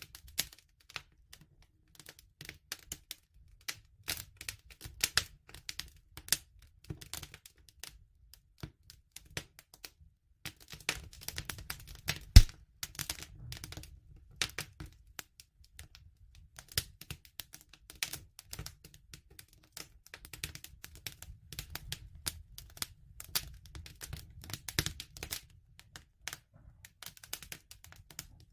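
Campfire crackling: irregular snaps and pops of burning wood over a low rumble of flame, with one sharp, much louder pop about twelve seconds in.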